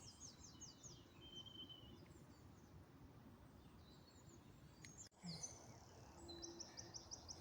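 Faint birdsong in an oak wood: a small bird's quick run of repeated high notes just after the start and again near the end, with a short, level high whistle about a second and a half in, over soft outdoor background hiss.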